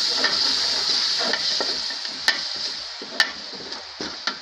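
Masala with potatoes sizzling in oil in a metal pot as a spoon stirs it, being fried with a little water so it doesn't catch. The sizzle dies down over the second half, and the spoon knocks sharply against the pot twice.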